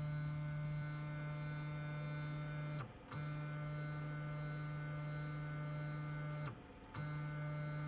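LulzBot TAZ 6 3D printer's stepper motors giving a steady electrical hum as they drive the Z axis. The hum stops briefly twice, about three seconds in and again near seven seconds, then resumes.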